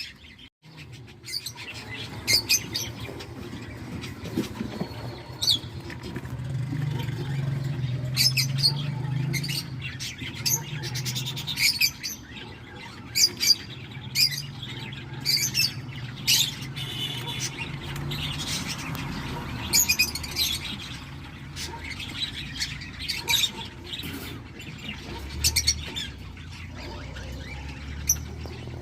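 Young cockatiel chicks calling in the nest: many short, high chirps and squawks repeating irregularly, over a low steady hum.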